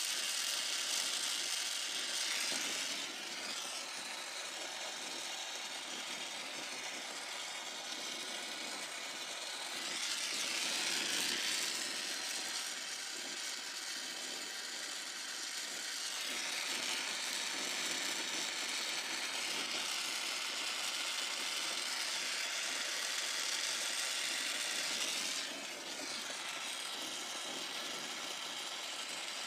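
Brazing torch flame hissing steadily while copper refrigerant lines are brazed, swelling and easing a few times and dropping a step about 25 seconds in.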